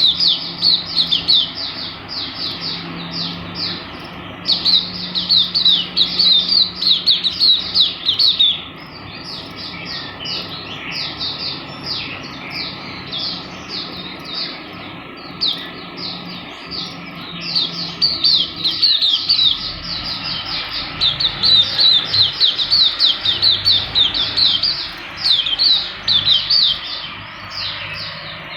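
A songbird chirping in a fast, continuous run of short, high notes that each slide downward, several a second. The chirping is softer for a stretch in the middle and loud again toward the end.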